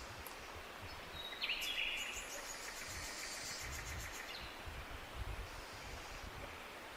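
Forest ambience: a steady hiss with an uneven low rumble, and a bird calling once with a short rapid trill about a second and a half in.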